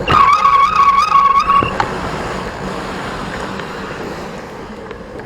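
Squeaky bicycle brake squealing as the rider brakes: a high, slightly wavering squeal lasting nearly two seconds at the start, followed by a steady rushing noise of the ride that slowly fades.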